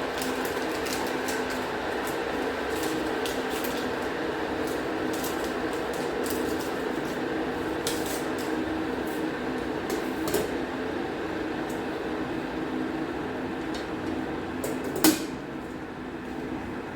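Kitchen clatter over a steady hum: repeated light clinks and clicks of dishes and utensils, with one sharper clack about fifteen seconds in.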